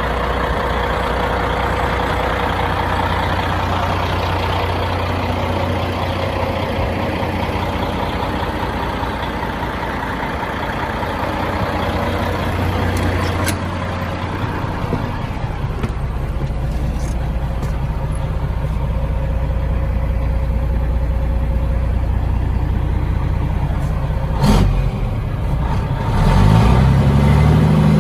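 1994 Kenworth truck's diesel engine running steadily at idle, with a short sharp clunk a few seconds before the end, then the engine revving up and back down.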